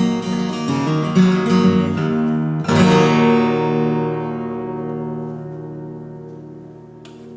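Guitar strumming the closing bars of a folk song, ending on a final chord about three seconds in that rings and slowly fades away.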